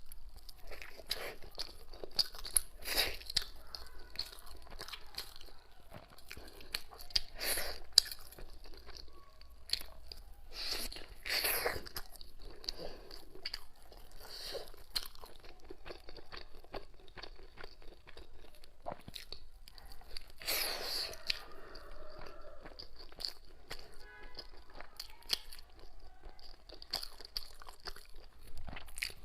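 Close-miked chewing and mouth sounds of someone eating a sticky glutinous-rice zongzi, with irregular wet smacks and clicks.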